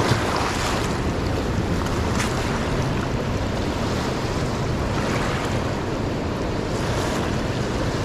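A swollen, fast river rushing steadily and loudly in whitewater close by.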